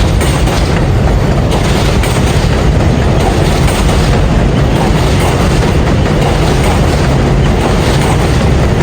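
R142A subway train running on the track: a loud, steady rumble of wheels on rail that holds without a break.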